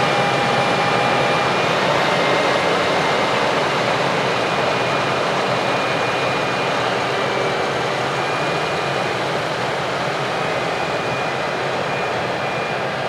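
Heavy harvest machinery running steadily: a dense mechanical drone with faint high whines, easing slightly toward the end.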